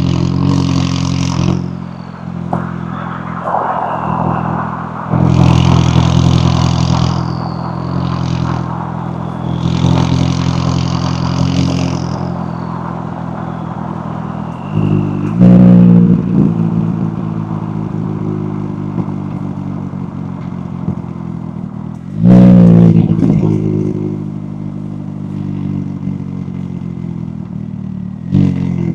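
McLaren 570S twin-turbo V8 exhaust as the car is driven, the engine note rising and falling in pitch. Twice, about halfway and about three quarters through, a sudden loud rev bursts out and then falls away.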